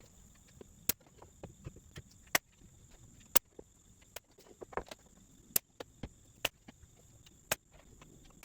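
Irregular sharp knocks and taps from hands-on work on wooden floor framing, with about six loud cracks roughly a second apart among many lighter taps. A steady high-pitched tone runs under them.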